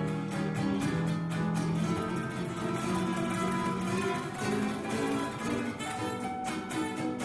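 Background music: acoustic guitar playing plucked and strummed chords in a flamenco-like style.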